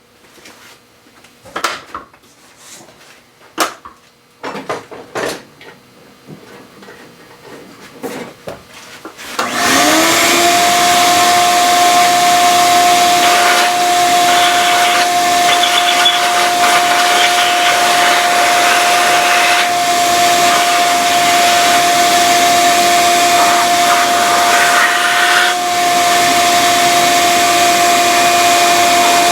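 A few light clicks and knocks of tool handling, then about nine seconds in an electric shop vacuum starts up, its motor whine rising briefly and then running loud and steady with a rushing of air, sucking debris out of the bolt hole.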